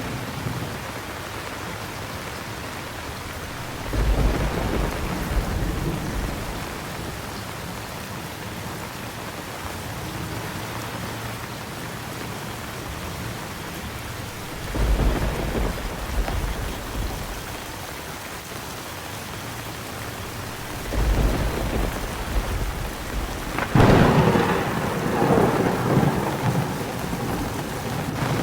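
Steady heavy rain with thunder: four rolls of thunder break in, about 4, 15 and 21 seconds in, and the loudest, crackling one near the end that keeps rumbling.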